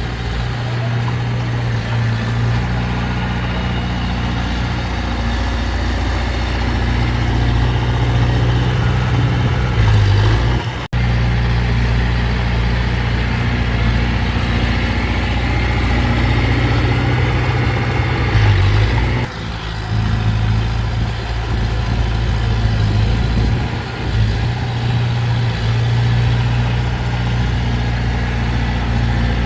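Heavy diesel engine of earthmoving machinery running steadily, with two brief surges in engine speed. The sound drops out sharply for an instant about eleven seconds in.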